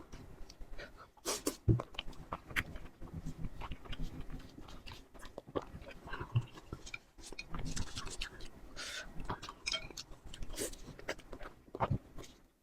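Chewing and eating sounds of steamed zucchini: an irregular run of small clicks and mouth noises.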